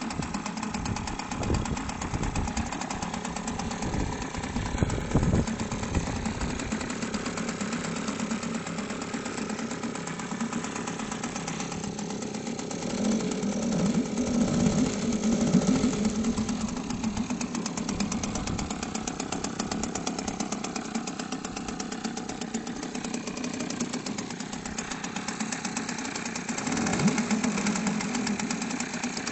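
Golfstream T 2.5 BMS two-stroke 2.5 hp outboard motor running in a test barrel, mostly at a steady idle. It runs unevenly in the first few seconds and picks up louder twice, around the middle and near the end. It is being run in on a rich oil mix.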